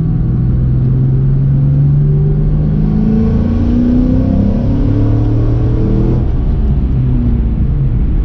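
2004 Ford Mustang Mach 1's 4.6-litre four-valve V8 pulling under acceleration, its pitch climbing steadily for about six seconds, then dropping suddenly as the revs fall and running on at a lower pitch.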